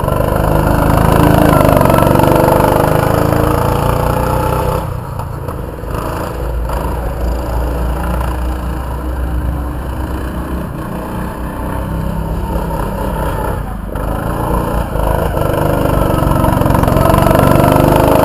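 Small race car engine accelerating hard, its pitch climbing over the first few seconds, easing off about five seconds in, then climbing again near the end.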